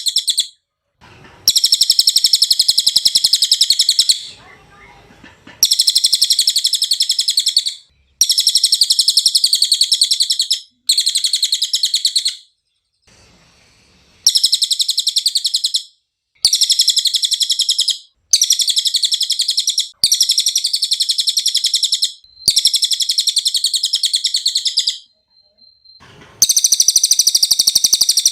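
Cililin (yellow-throated hanging parrot) singing a fast, high-pitched twittering song in repeated bouts of about two to three seconds each, with short pauses between them.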